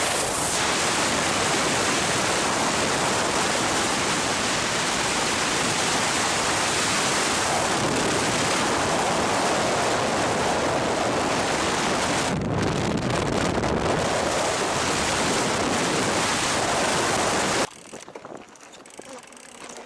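Loud, steady rushing noise of a storm, wind or driving rain hitting hard, that cuts off abruptly near the end.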